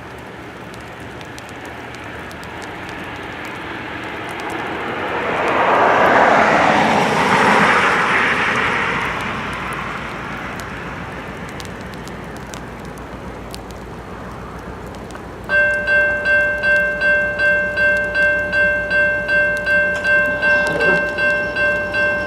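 A passing train's rumble and wheel noise swell up, peak about six seconds in, and fade. About two-thirds of the way through, a railroad grade-crossing bell starts ringing steadily, about two strikes a second.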